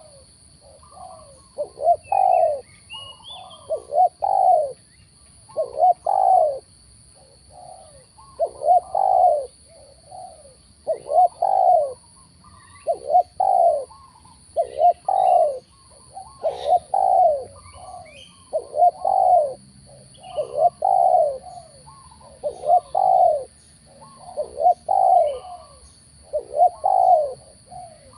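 Spotted dove (tekukur) cooing, a loud coo phrase about every two seconds, over and over. Faint higher chirps and two faint, steady high tones sit behind it.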